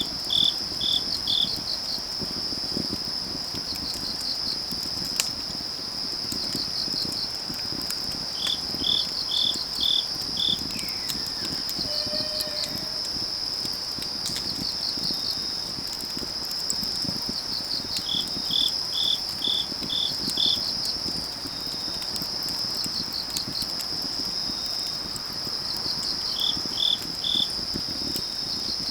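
Autumn night chorus of grass insects: a steady high-pitched trill, with crickets chirping in runs of four or five pulses every few seconds, over the soft crackle of burning firewood.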